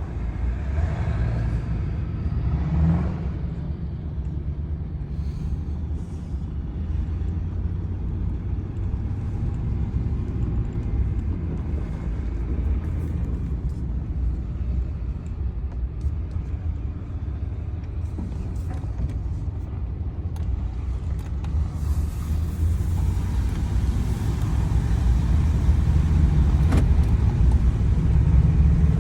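A 7.3-litre diesel truck engine idling steadily while it warms up after a hard winter cold start. It grows somewhat louder in the last several seconds.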